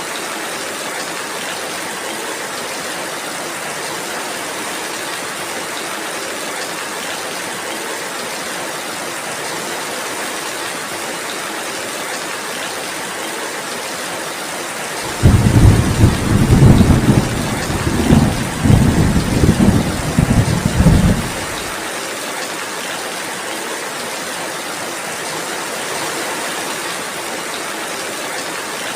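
Steady rainfall with a rumble of thunder that breaks in suddenly about halfway through, rolls in several loud surges for about six seconds, then dies away, leaving the rain.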